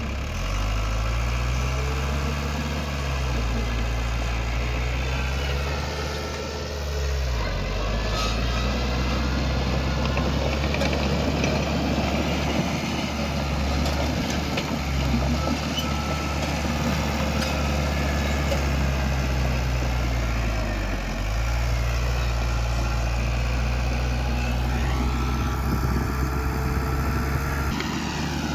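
Heavy diesel engine of earthmoving machinery running steadily, its pitch dropping and recovering several times, most clearly about seven seconds in and again about twenty-one seconds in, as the load on it changes.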